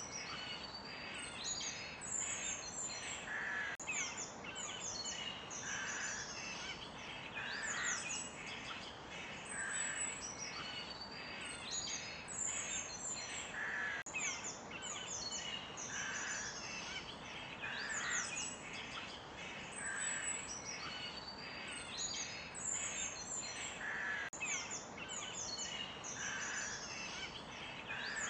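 Forest birds chirping and singing, many short calls and trills overlapping every second or two, over a steady background hiss.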